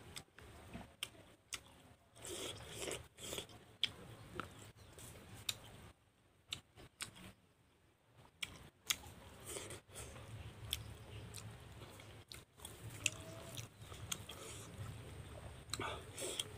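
A person chewing and biting food close to the microphone while eating with his hands, with a scatter of sharp mouth clicks, and a brief lull of about two seconds around six seconds in.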